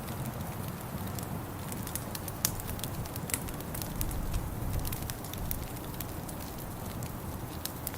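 Wood fire in a fireplace crackling, with irregular sharp pops, the loudest about two and a half seconds in, over a low steady rumble.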